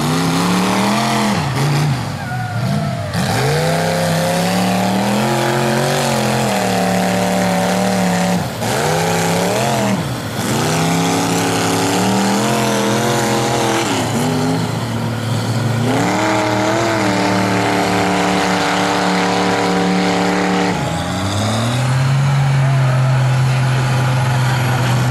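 Mega mud truck's engine revving hard, its pitch climbing and falling again and again as the throttle is worked, then held at a steady high rev near the end.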